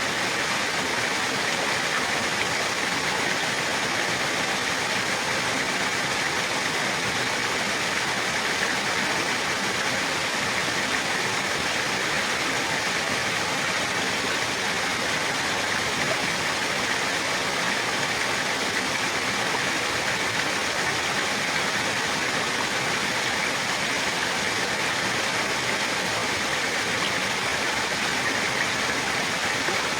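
Running water, a steady, unbroken rush like a stream or small waterfall.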